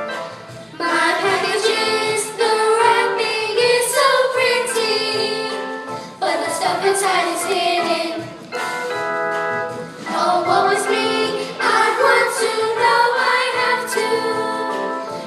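Singing with instrumental backing: a song from a musical, with voices carrying the melody over held accompaniment chords.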